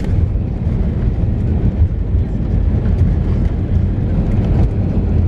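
Steady low rumble inside the cabin of an Airbus A320neo rolling on the ground after landing: the wheels and engines, with faint rattles.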